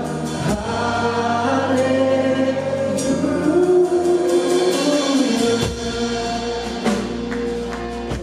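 Worship band and congregation singing a long, drawn-out "hallelujah" over band accompaniment with drum hits.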